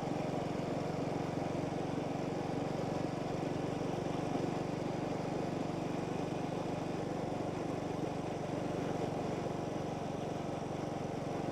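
Motorbike engine running steadily while riding along at an even speed, with no change in pitch.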